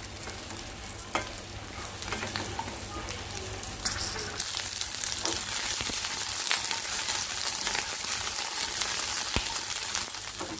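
Okra pieces sizzling as they shallow-fry in oil in a nonstick kadai, with a few light knocks as they are turned and the pan is tossed. The sizzle grows louder about four seconds in.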